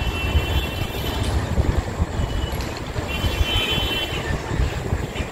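Railway line at night: a steady low rumble of trains running on the tracks, with a faint high whine that comes in near the start and again about three seconds in.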